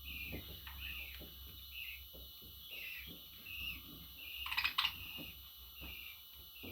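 Budgerigar chirping: short, repeated high chirps with faint ticks between them, and a louder, brief double call about four and a half seconds in.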